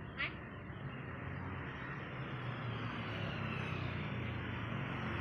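A single short bird chirp about a quarter of a second in, over a steady low rumble.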